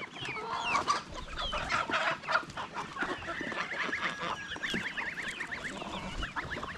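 A flock of poultry clucking and chirping, many short calls overlapping, with a quick run of repeated chirps, about six a second, in the middle.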